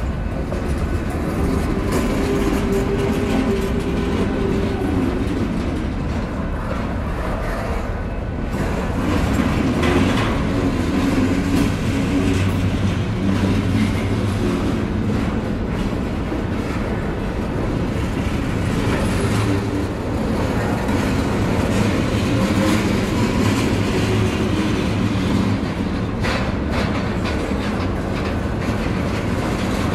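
Freight train cars rolling past close by: a steady rumble of steel wheels on rail, with scattered clacks as the wheels cross the rail joints.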